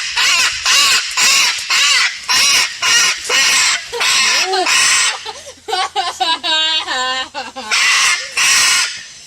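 Lorikeets screeching at close range: harsh squawks about three a second, then a few seconds of softer pitched chattering calls, then two longer squawks near the end.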